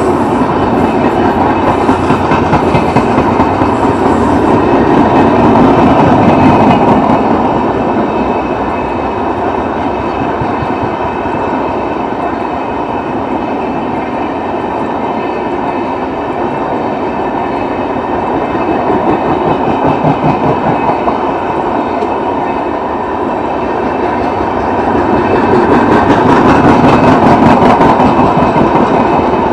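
Passenger coaches of an express train running past on the track: a continuous noise of wheels on rails, growing louder around a fifth of the way in and again near the end.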